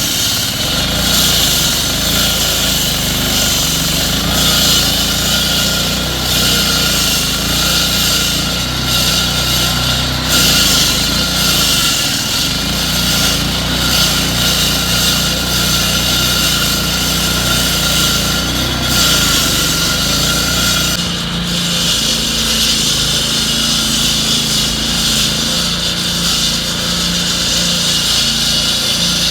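Construction machinery running steadily: a low engine drone under a loud, even high-pitched mechanical noise, with the engine note shifting about two-thirds of the way through.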